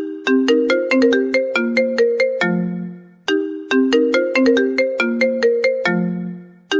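An iPhone ringtone playing: a short melody of quick, bright notes that ends on a lower held note fading away. The phrase repeats about every three and a half seconds, twice in full with a third starting near the end.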